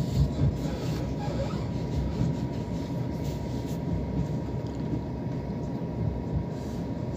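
Running noise inside a Southern electric commuter train: a steady low rumble from the wheels and track, with a faint steady high tone over it.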